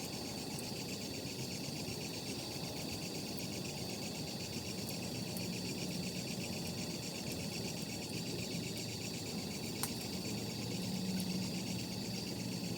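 Night insects chirring steadily in a fast pulsing trill, with a campfire crackling now and then and one sharper pop near the end.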